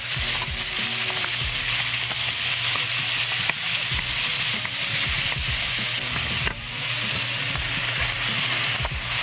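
Chicken and zucchini sizzling in a hot frying pan while a wooden spatula stirs them, with scattered light scrapes and knocks of the spatula on the pan. The sizzle dips briefly about six and a half seconds in, then carries on as mushrooms go in.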